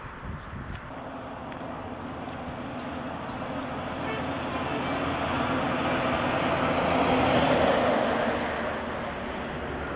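A heavy motor vehicle passes close by, its engine and road noise building to a peak about seven seconds in and then fading.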